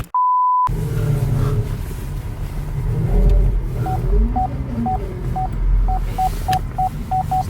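A brief steady beep at the very start, then a car's low engine and road rumble. About four seconds in, a parking sensor starts beeping, its beeps coming faster and faster as something gets close.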